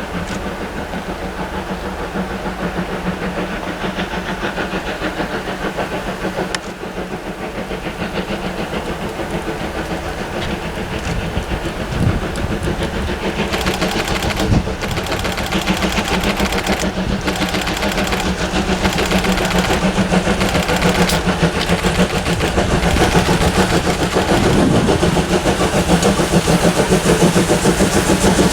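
Steam locomotive working along the track with a fast, even beat, growing steadily louder as it draws nearer.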